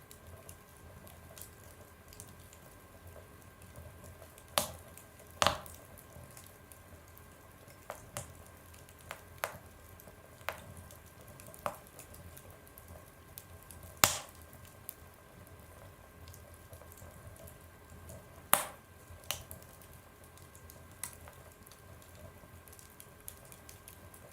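Wood fire burning in a stove, crackling: a low hiss with scattered sharp pops and snaps every second or two, the loudest about halfway through.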